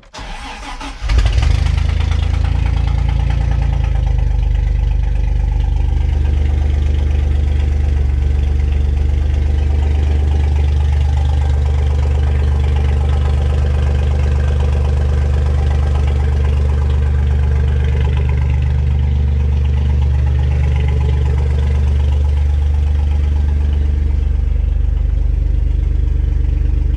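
Engine being jump-started on a cold morning from a second battery, because its own battery is too weak. It cranks briefly, catches about a second in, and then idles steadily.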